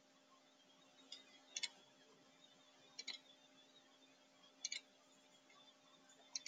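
Faint computer mouse clicks, mostly in quick pairs, a second or two apart, over near silence.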